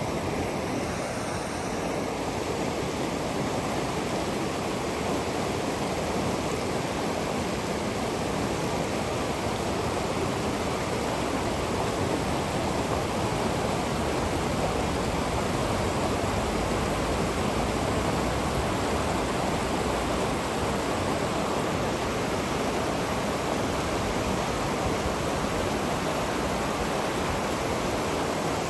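River water rushing steadily, an even continuous noise.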